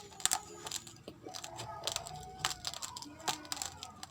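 Uncooked rice grains being chewed: sharp, crackling crunches, several in quick succession.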